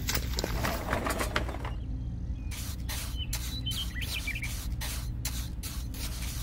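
Wet concrete slides out of a miniature wheelbarrow for the first second or so. Then a small hand trowel smooths it, scraping over the wet concrete in quick, regular strokes, about three a second.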